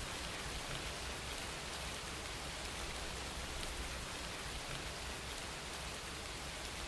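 Steady rain falling, an even hiss with faint drop ticks and a low rumble underneath.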